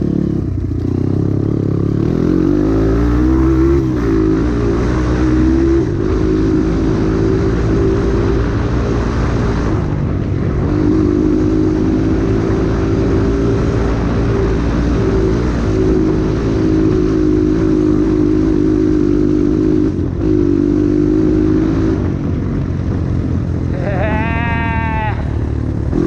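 Dirt-bike engine running under way on a trail ride, its pitch rising and falling with the throttle and then holding fairly steady, over a constant rushing noise.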